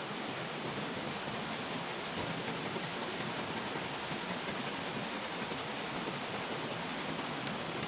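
A steady, even hiss of outdoor noise, like running water, with a faint click near the end.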